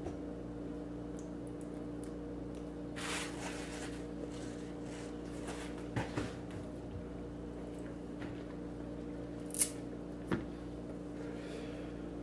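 A person eating banana: soft, wet squishes and a few sharp mouth clicks, with a short rustle about three seconds in, over a steady low background hum.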